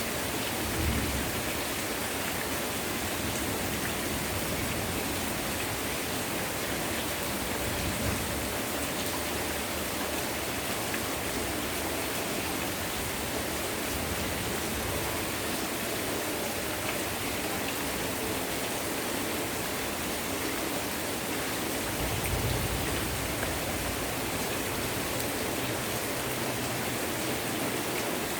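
Heavy rain falling steadily, a dense even hiss, with a few short low rumbles underneath: about a second in, about eight seconds in, and again around twenty-two seconds in.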